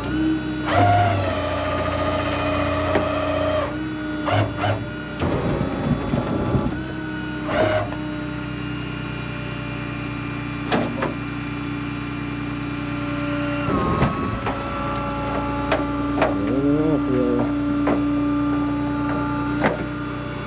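Tow truck engine running with its hydraulics engaged, giving a steady mechanical whine, while a wrecked car is unloaded, with scattered knocks and clanks of metal.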